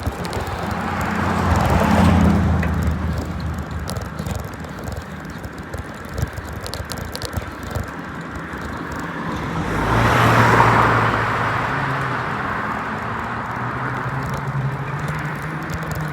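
Traffic passing on the road: two motor vehicles swell in and fade away, loudest about two and ten seconds in, each a rush of tyre noise over a low engine hum, with a steady road noise between.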